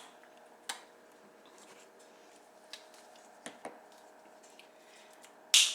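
Spice containers and kitchen utensils being handled while seasonings go into the pot: a few light clicks and taps, then a louder sharp click near the end, over a faint steady hum.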